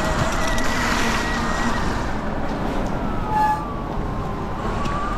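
Surron X electric dirt bike's motor whining as it cruises, over a steady rush of wind and tyre noise. The whine falls in pitch about halfway through and rises again near the end as the bike slows and picks up speed.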